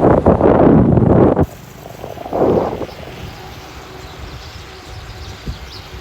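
Wind buffeting the microphone while cycling, in loud gusts: a long one at the start and a shorter one about two seconds in, with a steadier rush of wind between.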